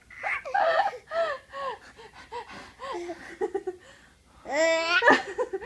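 A young child laughing in short, breathy bursts with gasps between them. After a brief lull comes a louder, high-pitched laugh near the end.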